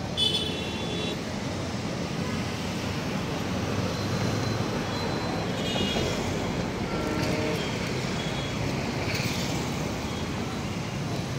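Indian Railways passenger train's sleeper coaches rolling past on the rails, a steady rumble mixed with road traffic, with a few short high-pitched tones near the start and about six seconds in.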